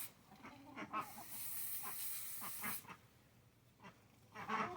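Ducks calling in short quacks, with a stretch of hissing noise in the middle. Loud quacking starts up near the end.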